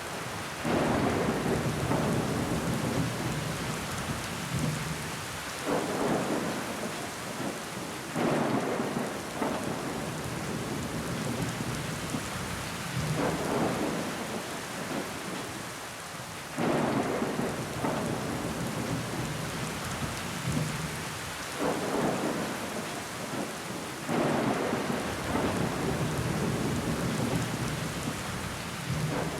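Rain falling against a window pane, with water running down the glass: a steady hiss with louder swells that start abruptly every few seconds and die away.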